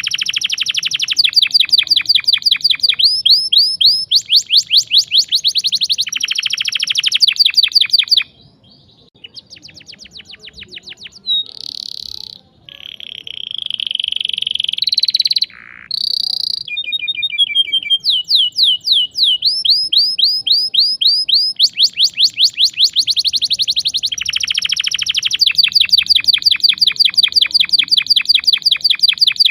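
Domestic canary singing a sharp, rolling song: long runs of fast, evenly repeated chirps. About a third of the way in it drops to softer trills and a few drawn-out whistled notes, then the rapid rolls start again.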